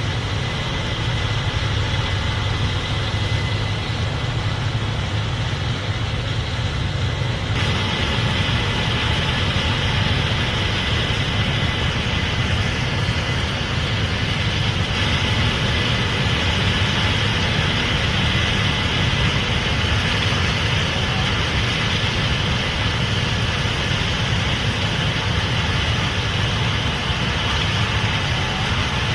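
Case IH Axial-Flow 8250 combine running steadily while harvesting corn: a steady diesel engine hum and machinery noise with a faint high whine. The sound turns abruptly brighter and hissier about a third of the way through.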